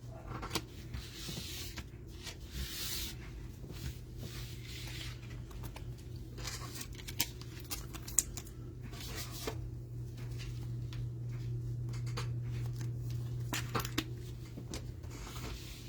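Trading-card packaging being torn open and cards being handled: scattered rustling, tearing and small clicks, over a steady low hum.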